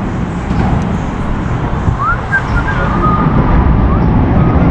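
Steady low rumbling noise, with a few faint, brief whistle-like calls about two seconds in.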